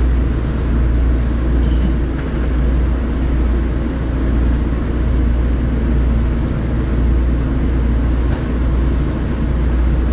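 Steady low rumble of a diesel railcar running along the track, heard from inside the car.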